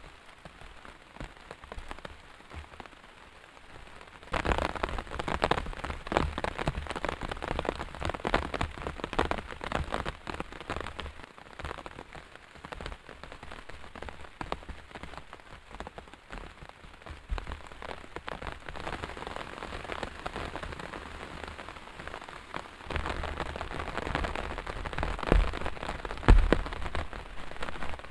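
Heavy rain falling, with many separate drops striking a surface close by. The rain grows heavier about four seconds in and again near the end, where two low thumps stand out.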